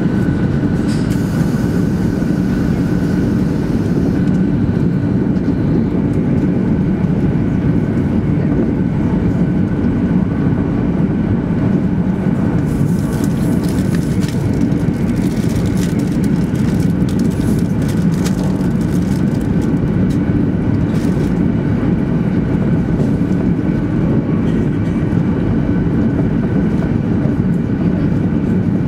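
Cabin noise of a 200 series Shinkansen running at speed: a steady low rumble with a faint steady high tone above it. Short stretches of brighter hiss come in about a second in and again around the middle.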